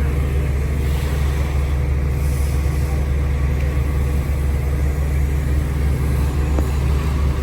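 Large truck engine running steadily with a deep, even drone.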